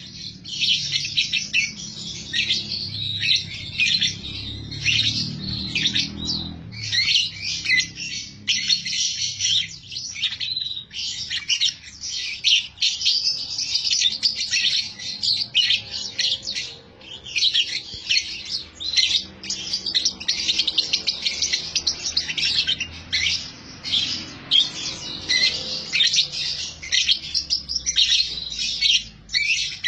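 Lovebird chattering: quick, high-pitched chirps in a near-continuous stream, broken only by a few brief pauses.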